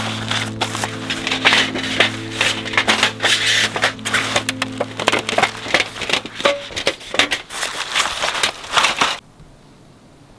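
Wood fire crackling and popping, dense sharp cracks that stop abruptly about nine seconds in.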